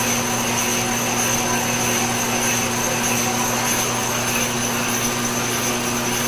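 Shop vacuum and lathe running steadily while a boring bar cuts the bore of a fiberglass tube, a constant hum with a high whine. The cut runs smoothly, with no chatter or singing from the bar.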